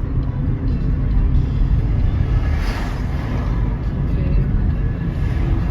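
Road noise heard from inside a moving car: a steady low rumble of engine and tyres, with a brief rushing swell about three seconds in.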